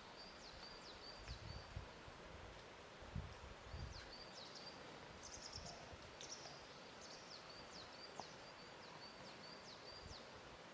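Faint lake ambience: soft low sloshes of water lapping in the first few seconds over a steady hiss, with a small bird giving short high chirps again and again throughout.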